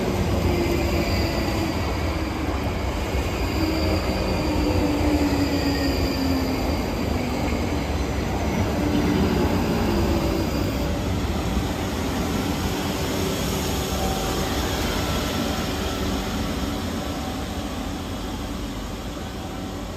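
South Western Railway electric multiple-unit train running past on the rails, a steady rumble of wheels with whining tones that slide lower and a faint high squeal through the first half. The sound fades gradually toward the end.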